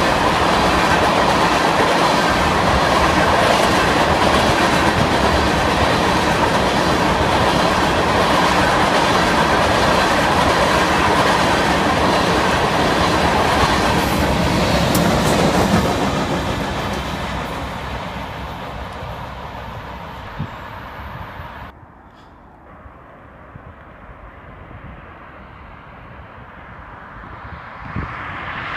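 Freight train of tank cars rolling past close by, steady and loud. The noise fades after the train's rear distributed-power locomotive goes by, then cuts off suddenly, about three quarters of the way through, to a much quieter background.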